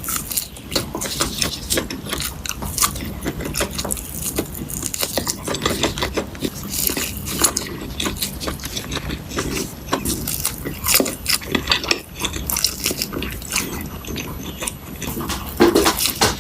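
Food being bitten and chewed with a crunch: a dense, irregular run of crackles and clicks.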